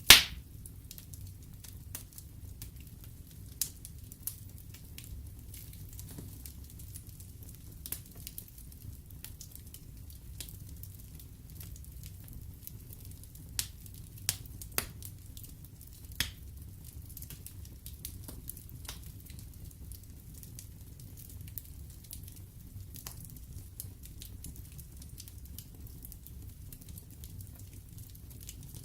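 Wood fire burning in a fireplace: a steady low rumble of flames with scattered sharp crackles and pops from the logs. There is one loud pop right at the start, and a small cluster of louder pops a little before halfway.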